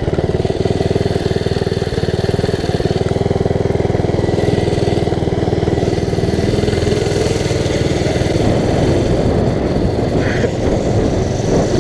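Mini bike's small single-cylinder engine running steadily under way, heard from the rider's seat, its note holding fairly even.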